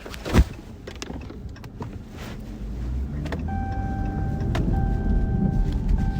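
A car running, with a low rumble that builds after a short thump near the start. A steady high tone joins in about three and a half seconds in.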